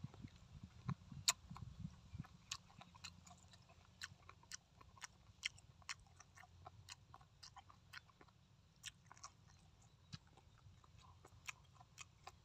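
A person chewing a mouthful of braised pork, faint but close, with many irregular sharp, crisp clicks from the mouth and food.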